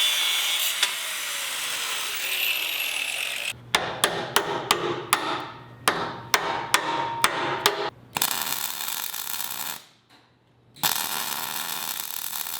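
A power tool runs on metal, then winds down with a falling whine. Next comes a run of about a dozen sharp hammer blows on steel, each one ringing. After that the power tool runs again in two steady stretches with a short pause between.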